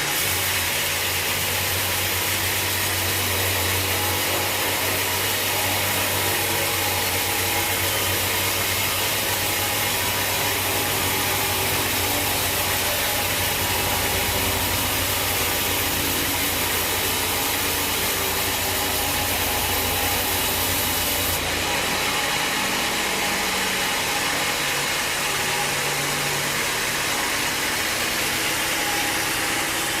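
Sawmill machinery running steadily, an engine-driven mill with a constant mechanical noise. About two-thirds through, the low hum drops away and the tone changes.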